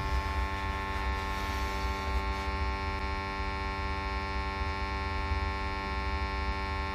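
Steady electrical hum with many overtones over a low rumble, unchanging throughout.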